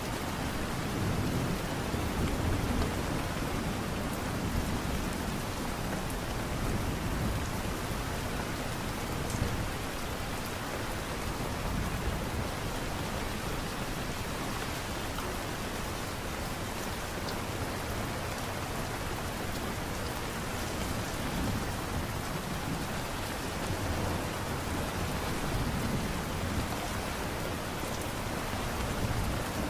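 Steady light rain falling, an even hiss of drops, with a soft low rumble swelling and fading at times, like distant thunder.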